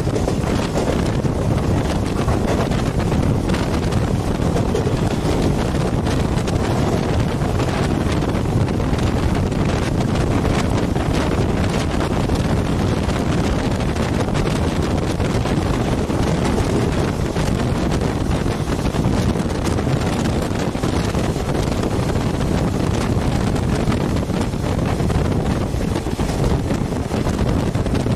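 Wind buffeting the microphone at the open door of a moving passenger train, over the train's steady running rumble on the rails.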